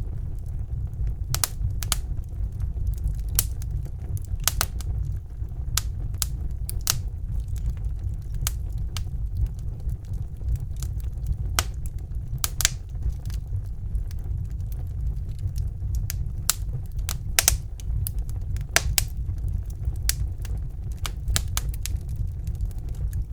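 Wood fire burning in a fireplace: a steady low rumble of the flames with sharp, irregular crackles and pops from the burning logs, several a second.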